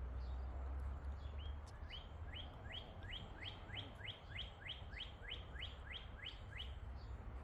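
A songbird repeating one short, upward-sweeping whistled note about fifteen times, roughly three a second, in a run that starts about a second and a half in and stops near the end. A steady low rumble of background noise runs underneath.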